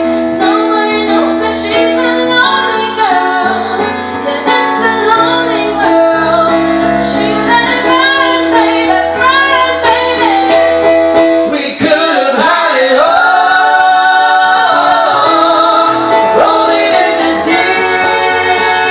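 A female voice singing a pop song over sustained backing chords. In the second half she holds long, wavering notes.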